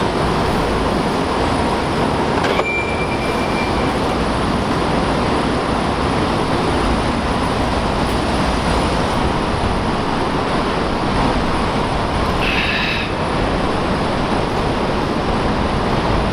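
Steady loud rumble and hiss of a moving car's tyre and road noise, with a short high tone about three seconds in.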